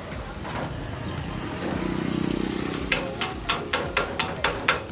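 A low motor-like hum swells and fades, then about eight sharp knocks come in a quick, even run of roughly four a second.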